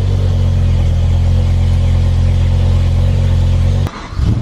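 BMW M5's V10 engine running steadily at one pitch, a deep, even drone. The sound cuts off abruptly near the end.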